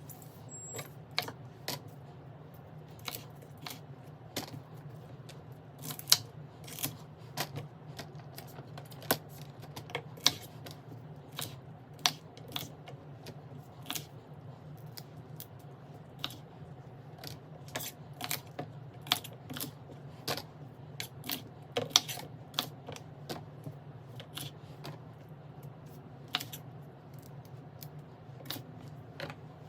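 Irregular light clicks and taps, with a few sharper knocks, of containers and kitchen items being handled and set down while a refrigerator is organized and restocked. A steady low hum runs underneath.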